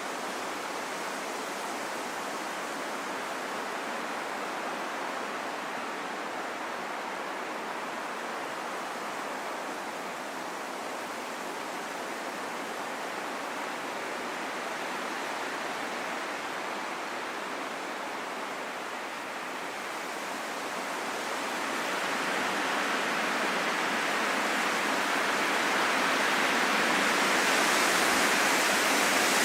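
Wind rushing steadily, with no low rumble, then swelling into a stronger, brighter gust over the last several seconds.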